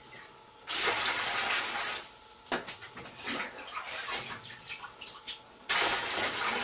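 Standing water being emptied by hand out of a Whirlpool washer that has failed to drain: two pours of about a second each, with small splashes and drips between.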